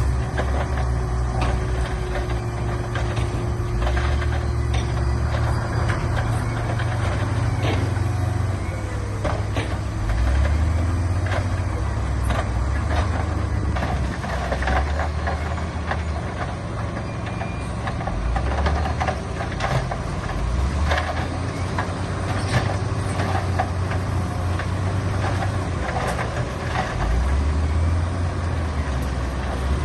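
Heavy diesel earthmoving machinery running, its engine note rising and falling again and again as it works, with frequent clanks and knocks throughout.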